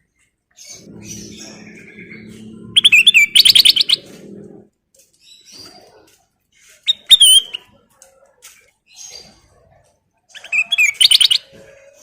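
Kutilang emas songbird singing in three loud bursts of quick, warbling chirps and fast trills, about 3, 7 and 11 seconds in. A low steady hum runs underneath during the first few seconds.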